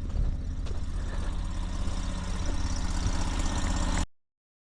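An engine idling steadily with a low, even hum; the sound cuts off abruptly about four seconds in.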